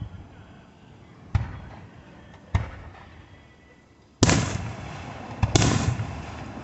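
Fireworks going off: a series of about five sharp bangs. Two lighter ones come first; two loud ones about four and five and a half seconds in are each followed by a rolling rumble that dies away.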